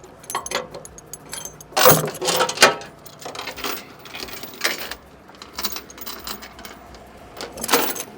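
Steel rigging chains clinking and clanking as they are handled, with loud metal-on-metal clanks about two seconds in and again near the end.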